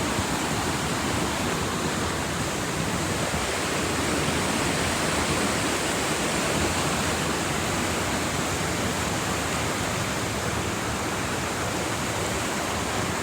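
Creek water rushing steadily over rocks and a waterfall, really noisy.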